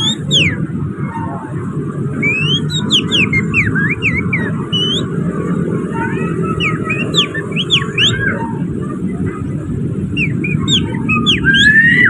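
A person whistling through the fingers in imitation of an oriental magpie-robin's song with canary-like phrases: bursts of quick chirps that rise and fall, ending in a longer rising note. A steady low rumble runs underneath.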